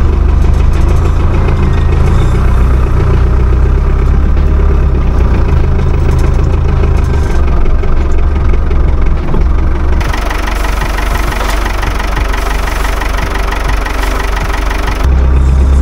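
Farm tractor engine running steadily with a deep rumble. About ten seconds in, the sound abruptly turns thinner and brighter with less low rumble, and the deep rumble comes back near the end.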